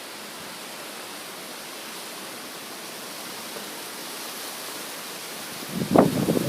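Steady hiss of hurricane rain and wind. Near the end, loud irregular rumbling and rustling starts suddenly, like gusts buffeting the microphone.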